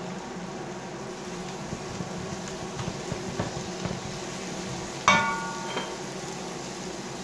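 Onion, carrot and tomato frying in oil in a kazan: a steady sizzle with a few soft knocks as a spatula stirs the vegetables. About five seconds in, a single metallic clink rings briefly.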